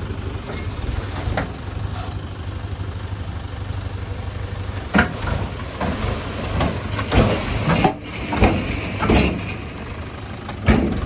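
Tractor diesel engine running steadily with a low pulsing rumble. From about five seconds in, a series of sharp knocks and clatters sounds over it.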